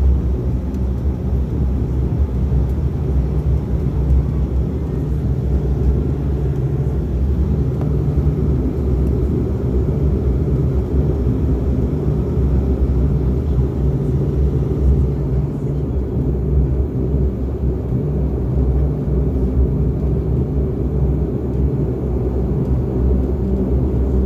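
Cabin noise of a de Havilland Canada Dash 8 Q400 under takeoff power: its Pratt & Whitney PW150A turboprops and propellers make a loud, steady drone with low humming tones. The hiss above the drone thins a little about two-thirds of the way through.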